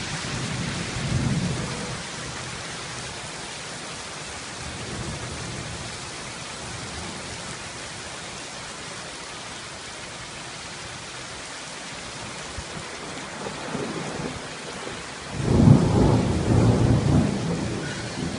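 Steady heavy rain falling, with thunder rumbling: a low roll about a second in, and a louder rumble starting about fifteen seconds in that rolls on to the end.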